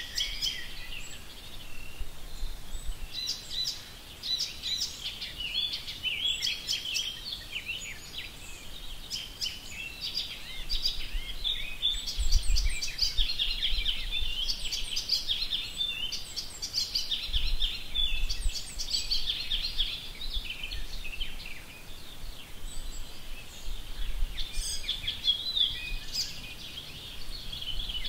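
Several songbirds chirping and singing without pause, a dense chorus of short, quick high notes and trills.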